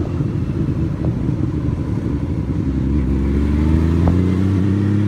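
Honda Valkyrie motorcycle's flat-six engine running while riding. The steady note turns ragged for a few seconds, then rises in pitch from about three seconds in as it picks up speed, and settles into a steady drone near the end.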